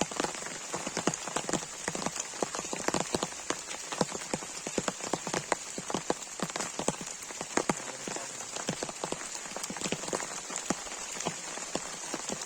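Heavy rain falling steadily, with many separate drops striking a surface close by in quick, irregular hits.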